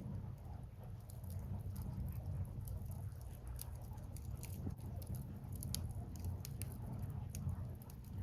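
Wood fire burning, with irregular sharp crackles and pops of the burning logs over a steady low rumble.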